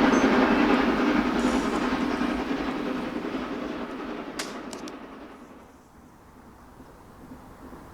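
Steam-hauled train running past and fading away into the distance. A few sharp clicks come about four and a half seconds in, as the sound dies down.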